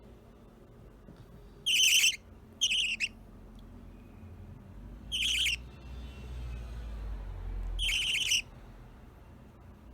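Budgerigar giving four short, harsh, high squawking calls, two close together about two seconds in, then one a little past five seconds and one near eight seconds, with a low rumble underneath the later calls.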